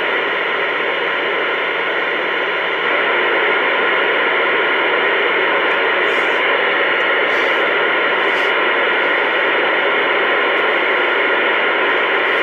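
CB radio receiver hissing with static on an open channel, with no one transmitting. The hiss is loud and steady and gets a little louder about three seconds in.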